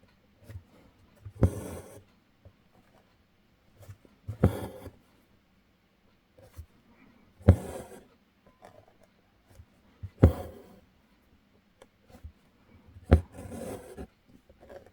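Embroidery needle and thread pulled through taut hooped fabric, five times about three seconds apart: each a sharp pop as the needle pierces the fabric, then a brief scratchy rasp as the thread draws through.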